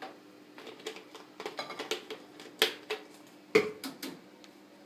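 Handling noise at a washing machine: scattered light plastic clicks and taps, with two sharper knocks, one a little past the middle and another about a second later.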